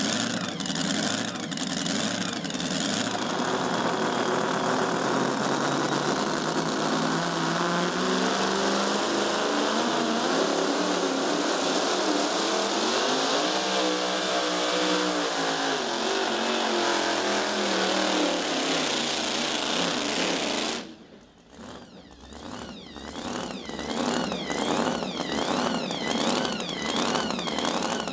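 Supercharged Hemi engine of a super modified two-wheel-drive pulling truck running loud at high revs, its pitch rising and then falling partway through. It cuts off suddenly about two-thirds of the way in, and a quieter engine follows with a quick, uneven pulse.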